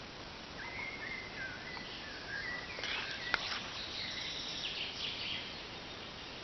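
Small birds singing and chirping, with thin warbling notes over a steady background hiss. A single sharp click about three seconds in.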